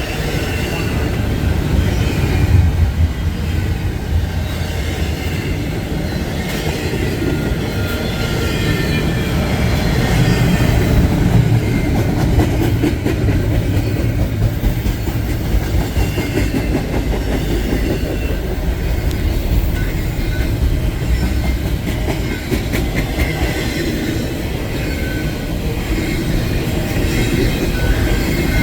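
A train's cars rolling past: a steady rumble of wheels on rail, with brief high squeals of wheels here and there.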